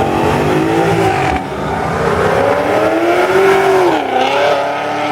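Loud car engine accelerating away: the note climbs, drops about four seconds in as it shifts gear, and starts climbing again.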